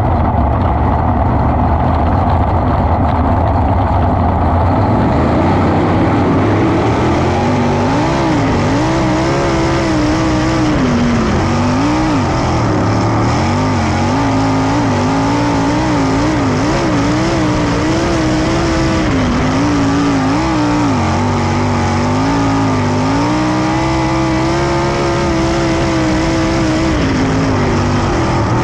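410 sprint car V8 engine at racing speed on a dirt track. Its pitch rises and falls over and over with the throttle, over a dense engine rumble.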